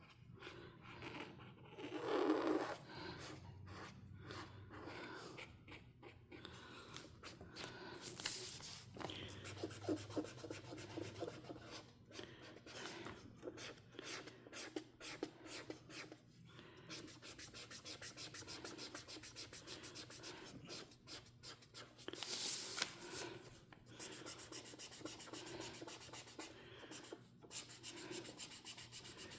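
Coloring on paper: a coloring tool scratches across the page in quick, irregular strokes, with a couple of louder swells.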